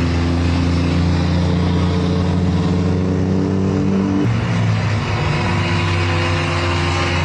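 Motor vehicle engine running steadily, its note changing abruptly about four seconds in.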